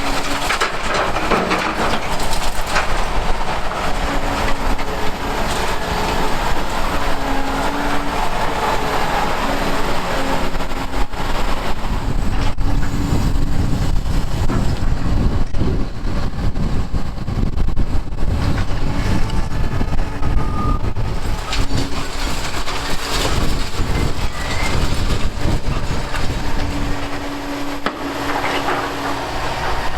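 Heavy Liebherr crawler excavators running under load, their engines and hydraulics giving a steady drone that rises and falls, over a constant clatter and scraping of broken concrete being worked.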